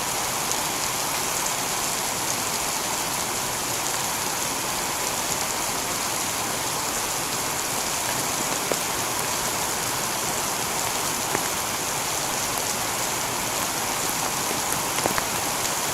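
Steady heavy rain falling on a tiled roof, an even wash of sound with a few single drop ticks standing out now and then.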